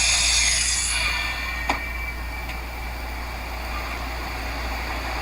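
Power saw motor whining, switched off about a second in. A single sharp knock follows, then only a low steady hum.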